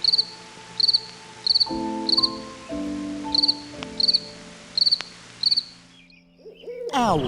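Cricket chirping: short trilled chirps, about two a second, over soft sustained music tones. The chirps stop about a second before the end.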